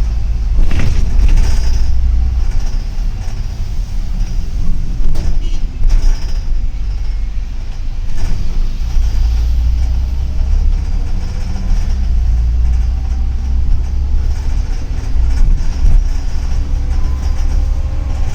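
Double-decker city bus under way, heard from inside: a steady low engine and road rumble with a few knocks and rattles from the body.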